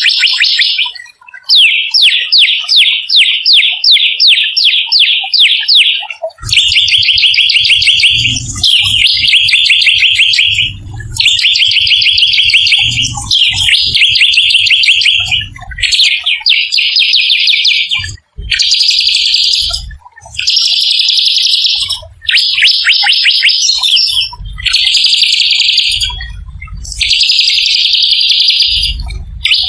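A small songbird singing a rapid, harsh rolling trill, about ten phrases of one to three seconds each, separated by short breaks, every phrase a fast run of high notes. A low rumble sits under many of the phrases from about six seconds in.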